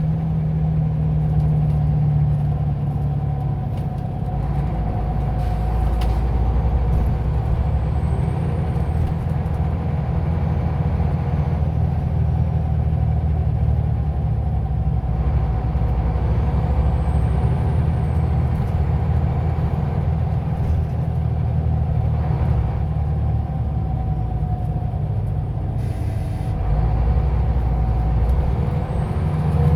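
Scania OmniLink city bus heard on board: its engine running and the bus driving, with a steady low rumble and a drifting whine. Short hisses of air, typical of the air brakes, come a couple of times.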